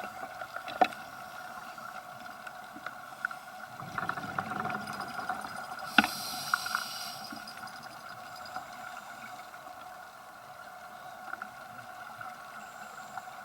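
Underwater sound picked up by a diver's camera: a steady two-toned hum with scattered clicks, a low rush about four seconds in, and a sharp click followed by a short hiss about six seconds in.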